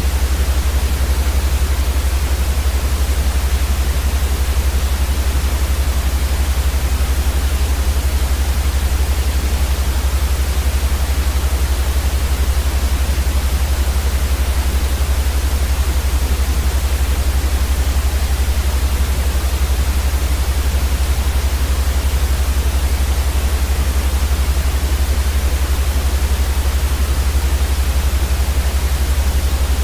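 Steady synthetic white noise for sleep: an even, unchanging hiss over a strong, constant deep rumble.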